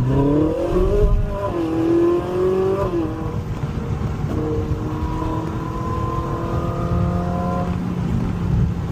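Car engine heard from inside the cabin, accelerating through the gears. The pitch climbs and drops at a shift about a second in, climbs and drops again near three seconds, then holds steady at cruising speed over a constant low road rumble.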